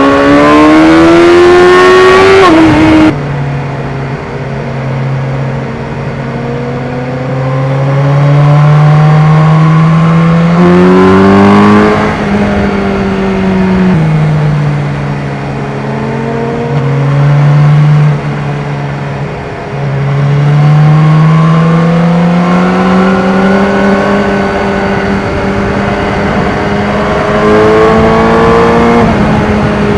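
BMW S1000R's inline-four engine under way, pulling hard in several rising runs of revs, each cut off by a sudden drop in pitch, with steadier, quieter cruising between them.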